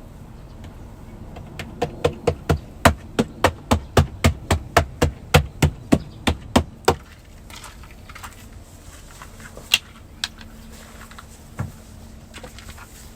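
A quick, even run of about eighteen sharp knocks, around three a second, followed by a few single knocks.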